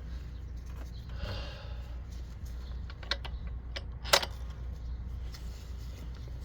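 Light handling noises while working on an engine bay: a brief rub about a second in, a few small clicks, and one sharp click about four seconds in, over a low steady hum.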